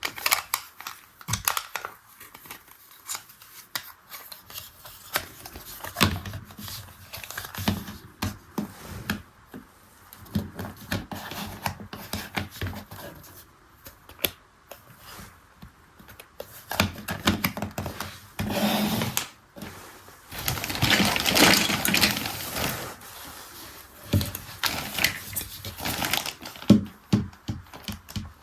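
Hands handling and working a small plastic toy washing machine: a string of clicks, taps and knocks, with a louder, noisier stretch lasting a few seconds about twenty seconds in.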